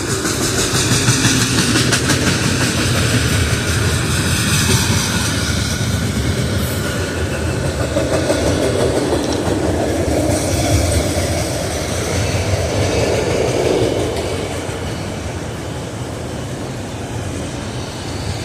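Freight train cars rolling past, a steady rumble with the clatter of wheels over the rail joints, easing off a little near the end.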